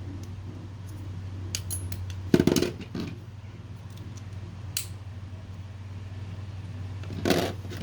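A steady low hum of background noise, with a few sharp clicks and a short clatter, the loudest about two and a half seconds in and another near the end.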